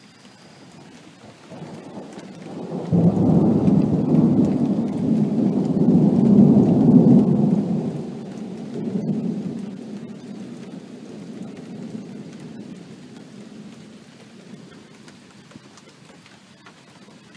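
Rolling thunder over steady rain: a low rumble builds, breaks loud about three seconds in, swells again near nine seconds, then slowly dies away.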